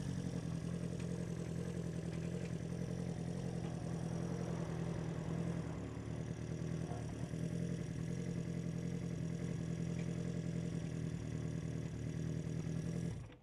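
1976 Honda CB400F (400/4) air-cooled inline-four engine idling steadily, then switched off, cutting out suddenly at the very end.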